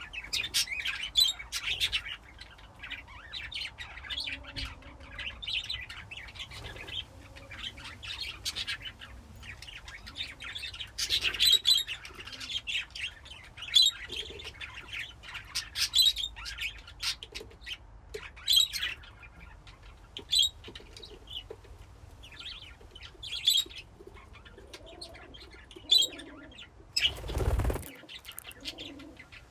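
A flock of budgerigars (budgies) chirping and chattering, with many short, high chirps that come thickest about eleven seconds in. Near the end comes a brief, loud burst of wings flapping.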